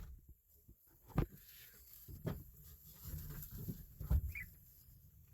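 A few faint knocks and thumps spaced about a second apart, with a brief high squeak about four seconds in.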